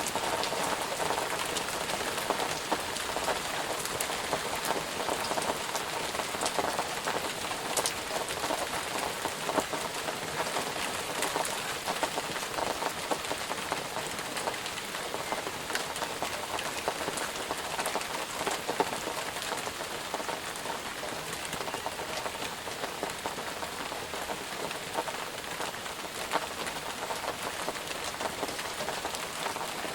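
Steady rain falling on a surface, a constant hiss thick with many separate drop ticks.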